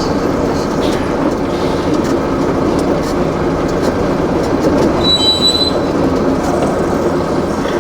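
Heavy vehicle engine running steadily close by, with a brief high-pitched squeal about five seconds in.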